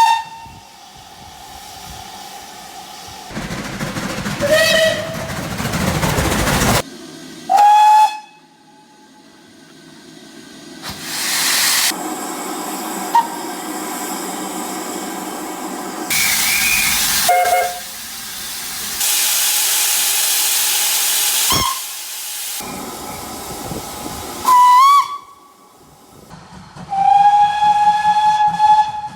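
Steam locomotive whistles: a string of short blasts, several sliding up in pitch as they open, and one long steady blast near the end, with loud steam hissing in between and abrupt changes from one locomotive to the next.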